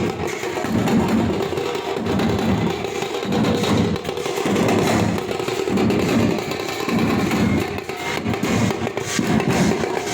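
Drum-led percussion music, a dense, noisy wash with a heavy low beat pulsing a little more than once a second.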